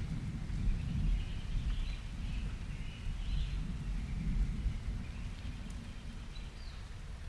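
Birds chirping with short, scattered calls over a constant low rumble, from a summer rain, birds and thunder nature ambience.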